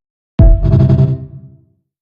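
A single deep cinematic impact hit, a sound-effect sting with a ringing, pitched tail, that strikes about half a second in and dies away within about a second.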